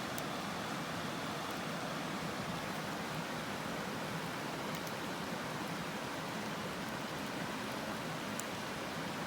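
Campfire burning: a steady rushing hiss with a few faint crackles.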